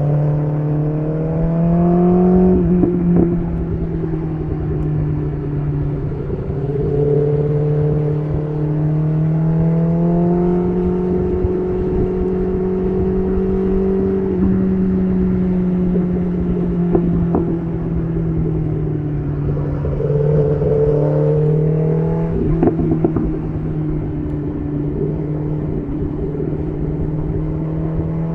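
BMW S1000RR's inline-four engine running through an SC Project CR-T titanium exhaust on the move, its revs rising and falling several times.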